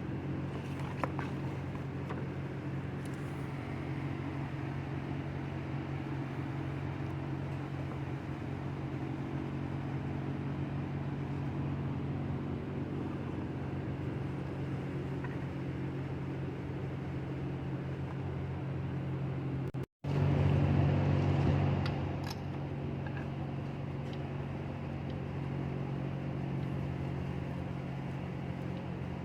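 Vehicle engine running at a steady idle. The sound drops out for an instant about two-thirds of the way through, then comes back louder for a couple of seconds before settling again.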